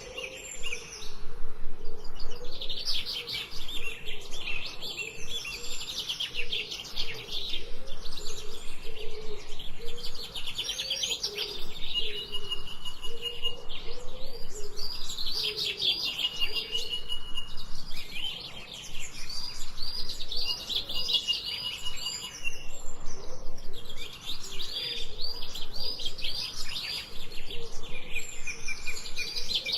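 Several songbirds chirping and trilling at once, in quick repeated phrases with brief held whistles, over a faint low wavering tone.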